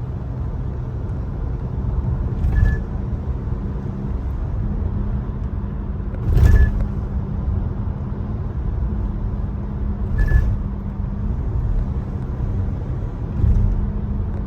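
Steady car engine and road rumble, with a louder thump about every four seconds.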